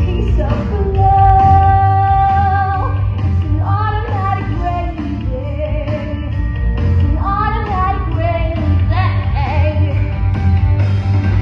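A female voice singing a song over backing music, with one long held note from about one to three seconds in.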